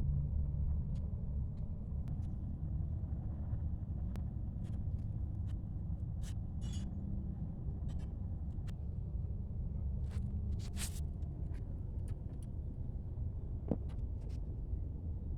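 2005 Toyota Sienna minivan driving, a steady low rumble with scattered light clicks and rattles over it.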